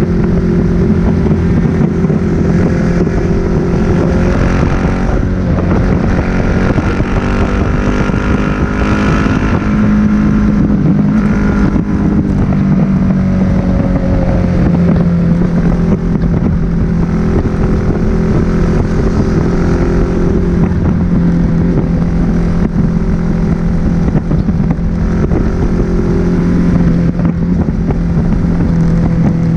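A Suzuki SV1000S's V-twin engine running through a Leo Vince aftermarket exhaust while the bike cruises at steady speed. The engine note holds fairly even, with small rises and dips in pitch as the throttle changes. Wind rushes over the microphone underneath.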